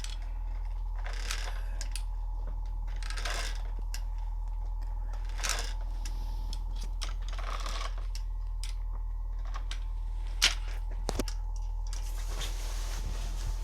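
Scattered light clicks and taps, one sharper than the rest about ten and a half seconds in, over a steady low hum.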